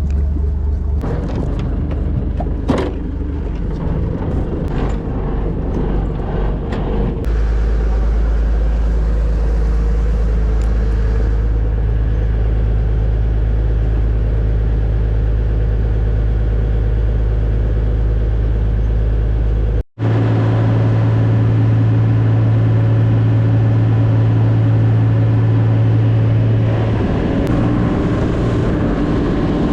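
Boat engine running steadily under way, a loud low drone. A few sharp knocks come in the first several seconds. After a brief dropout about twenty seconds in, the drone returns at a different, steady pitch.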